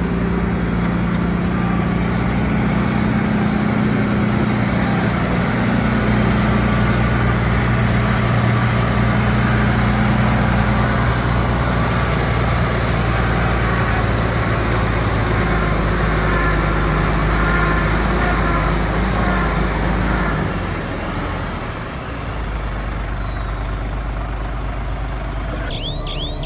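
Heavy diesel engine of construction machinery running steadily under load, easing off slightly about three quarters of the way through.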